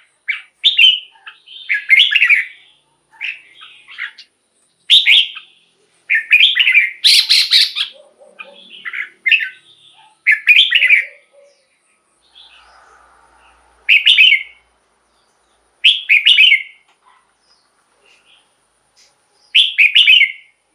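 Red-whiskered bulbul singing: short, bright, warbling phrases, each under a second, repeated every second or two with a few longer pauses.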